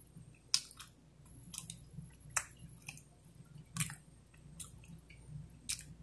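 Close-miked mouth sounds of someone eating a dessert: soft chewing with sharp wet clicks and smacks about once a second.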